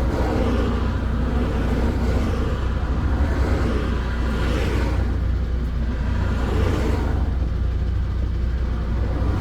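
MAN TGX 18.520 truck's inline-six diesel engine running steadily while driving, a deep, even drone with road noise over it.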